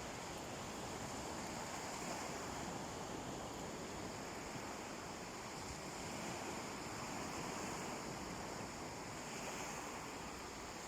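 Calm sea waves washing gently on a beach: a steady surf wash with slow, soft swells and no distinct breaking crash.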